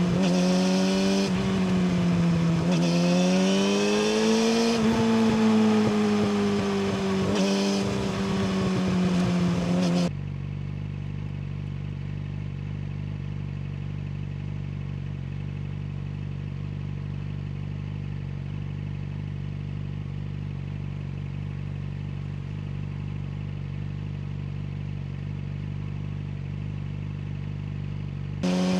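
Yamaha YZF-R6 inline-four engine with an Akrapovic slip-on exhaust, riding with the revs rising and falling for about ten seconds. It then cuts suddenly to a quieter, steady hum with no change in pitch, and the riding engine sound comes back abruptly near the end.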